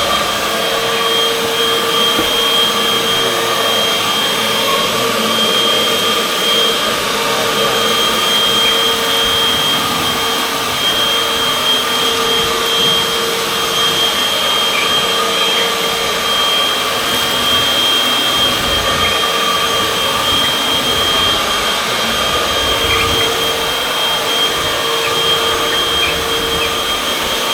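Upright vacuum cleaner (model UH70605) running steadily over a hard kitchen floor, a constant motor whine over airflow noise. It is still set to carpet mode.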